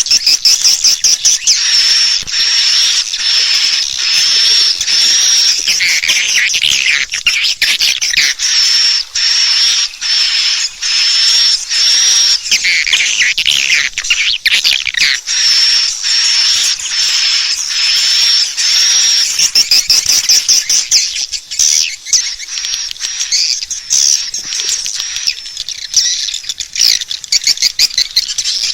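Swiftlets twittering in a fast, unbroken stream of short, high chirps, now and then a longer call sliding downward. This is a swiftlet lure call, the track played to draw swiftlets in to roost and nest in a swiftlet house.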